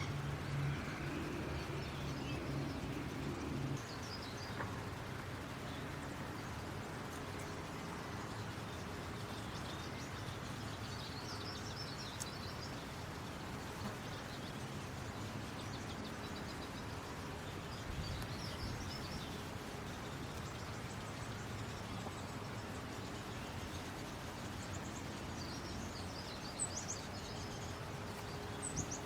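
Outdoor ambience with a steady background hiss and a few short, high bird chirps coming now and then. A low engine hum, as of a passing vehicle, fades out in the first few seconds.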